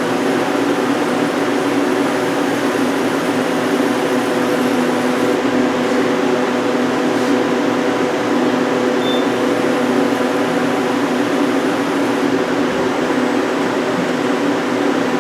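Hyundai Kia SKT-250LMS CNC lathe running with a steady mechanical hum.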